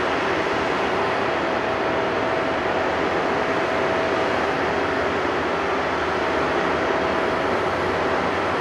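Airbus A330-300's Rolls-Royce Trent 700 turbofans running at taxi power: a steady, even rush with a thin held tone that fades about halfway through.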